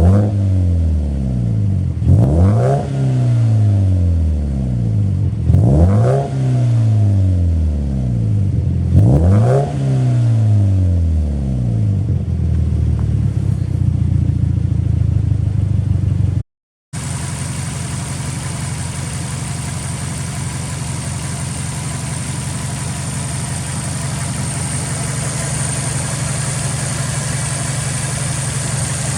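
Subaru Impreza WRX STI's turbocharged 2.0-litre flat-four, fitted with a titanium aftermarket muffler, blipped about every three and a half seconds. Each rev rises quickly and sinks slowly back to idle. After a brief dropout the engine idles steadily.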